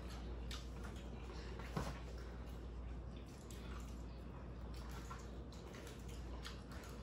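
Eating sounds: chewing and wet mouth noises, with a few soft clicks and ticks, over a low steady hum.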